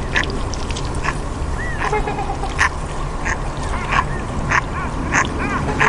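Animal calls: short arching cries repeated about once every 0.7 seconds, over a steady low background rumble.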